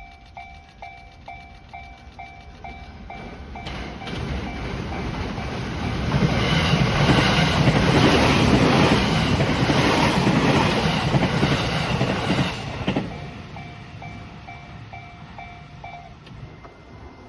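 Japanese level-crossing warning bell ringing at about two strikes a second while a 285 series Sunrise Izumo sleeper train passes over the crossing, with loud wheel-on-rail noise for several seconds. Once the train has gone, the bell rings on alone and stops near the end.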